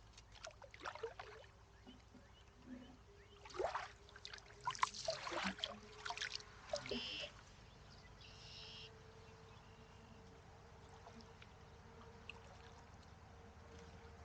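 Canoe paddle strokes in water: splashing and dripping off the blade in a few irregular bursts over the first seven seconds, then quieter.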